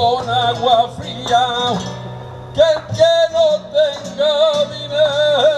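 Flamenco song: a voice singing a wavering, ornamented melody over acoustic guitar.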